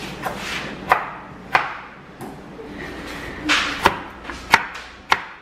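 Kitchen knife chopping food on a cutting board: separate sharp knocks at uneven spacing, coming quicker toward the end, with a brief scraping swish among them.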